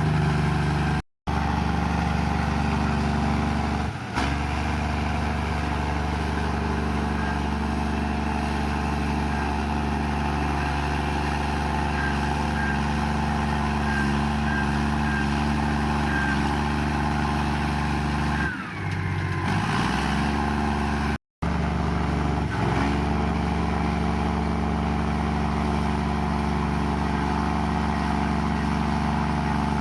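Komatsu bulldozer's diesel engine running steadily under load as the dozer pushes mud. The sound drops out for a split second twice, about a second in and about twenty-one seconds in.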